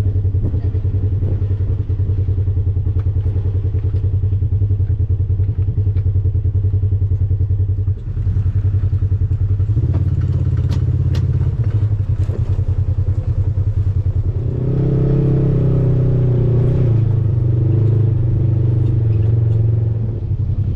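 Off-road vehicle engine running while driving a rough trail, with clatter and knocks from the ride. The engine pulls harder about ten seconds in, and its note rises again at about fifteen seconds.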